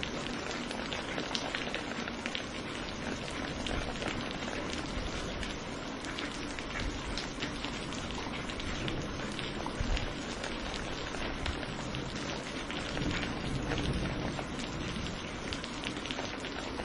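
Steady rain falling, a continuous hiss dotted with the ticks of individual drops striking a surface.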